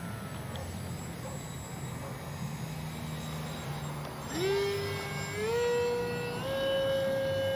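HobbyZone Aeroscout's electric motor and propeller, a faint low drone at first, then about four seconds in a loud whine that rises sharply in pitch and steps higher twice more as the throttle is advanced.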